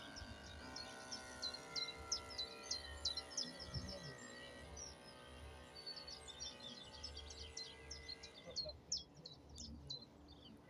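Small birds chirping repeatedly, short high calls throughout. Underneath runs a faint steady hum of several tones that stops about eight and a half seconds in.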